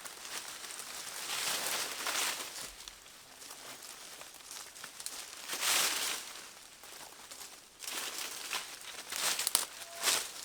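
Dry undergrowth rustling and crackling as it is pushed through and pulled, in several swells, with a few sharp snaps near the end.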